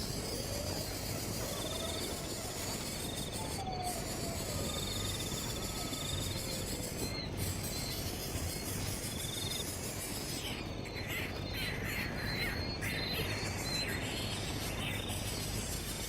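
Birds chirping outdoors over a steady background hiss, with a rapid run of chirps in the second half and short trilling calls earlier on.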